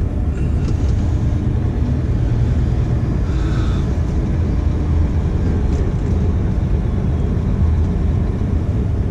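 Scania dump truck's diesel engine running, a steady low rumble heard from inside the cab, with a faint brief hiss about three and a half seconds in.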